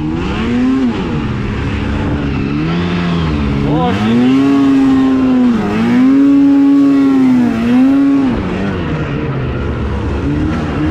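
Two-stroke snowmobile engine revving up and down again and again, held at high revs for a couple of seconds around the middle before easing off near the end.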